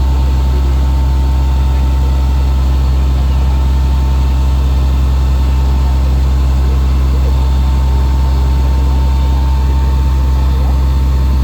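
Fire engine running steadily with a deep, even hum and a thin steady whine above it, while it pumps water.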